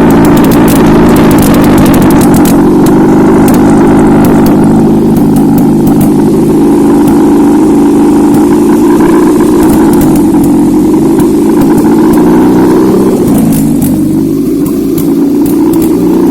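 Z22SE 2.2-litre four-cylinder petrol engine running on a test stand, a loud steady running sound that eases slightly near the end.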